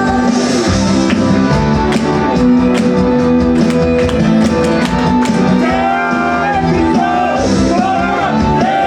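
Live J-pop idol song: a woman singing over loud, full instrumental accompaniment with guitar, her voice coming in more clearly in the second half.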